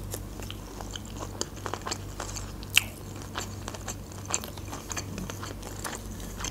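Close-miked chewing of a shrimp Caesar salad: irregular wet crunches and small mouth clicks, with one sharper crunch about three seconds in. A faint steady low hum runs underneath.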